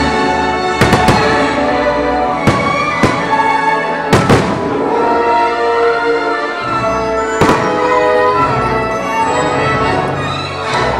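Orchestral fireworks-show music with firework bursts going off over it: a quick cluster of bangs about a second in, two more in the next couple of seconds, the loudest about four seconds in, and another about seven and a half seconds in.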